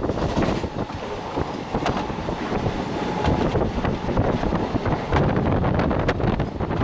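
Mumbai suburban electric local train running at speed, its wheels clattering and knocking on the track, with wind rushing over the microphone.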